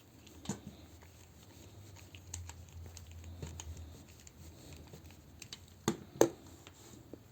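Small plastic toy-figure parts being handled: scattered light clicks and rustling, with two sharper plastic knocks about six seconds in.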